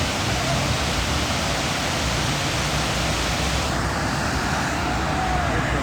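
Steady rushing of falling water and river, an even hiss and rumble whose upper part fades somewhat a little over halfway through.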